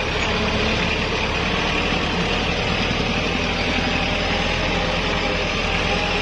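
Kubota L5018 tractor's diesel engine running steadily.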